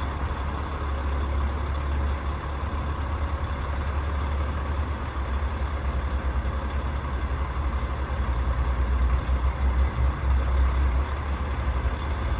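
Rooftop HVAC unit running: a steady mechanical low rumble with a faint steady hum above it.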